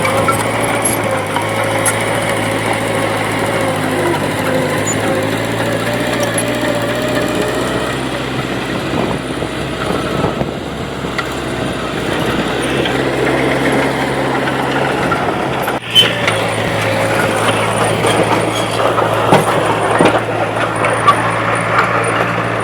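Diesel engine of earthmoving machinery (bulldozer or dump truck) running steadily at work. A single sharp knock sounds about 16 s in, and a few lighter clicks follow.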